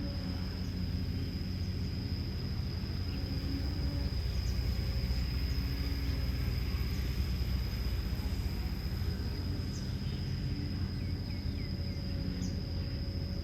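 Kobelco SK210LC excavator's Hino J05E-TG four-cylinder turbodiesel engine running steadily, swelling a little louder for a few seconds midway and then settling back. A steady high-pitched tone runs alongside.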